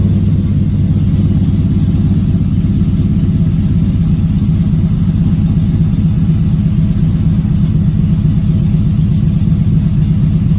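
A cammed truck engine idling steadily with a choppy, lopey beat from its 216/220 aftermarket camshaft.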